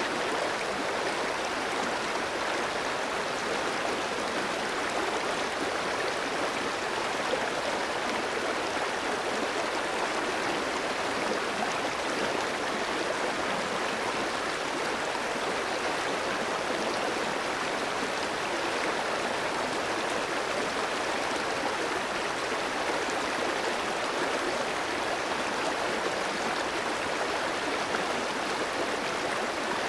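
A clear, shallow stream running over rocks: a steady, even rush and babble of water.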